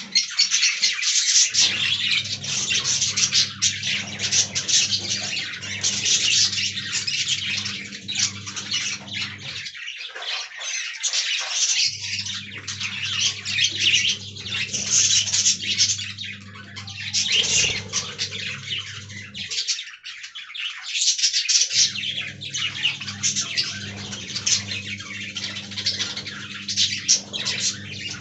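A flock of budgerigars chattering, with rapid, continuous chirps and squawks.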